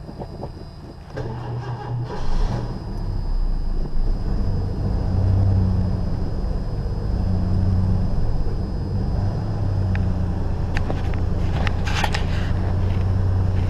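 Cadillac Eldorado engine cranking on a boosted weak battery, catching within the first few seconds, then running cold with the throttle held, its speed swelling and easing because it will not idle on its own yet. A few sharp clicks near the end.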